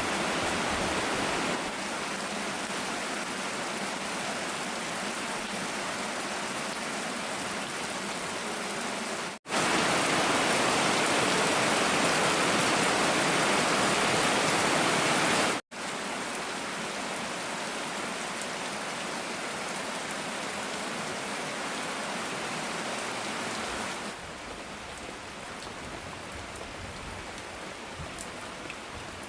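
Heavy downpour of rain, a steady dense hiss of rain on the ground and surfaces. It is heard in several cut-together stretches, and the stretch in the middle, about six seconds long, is the loudest.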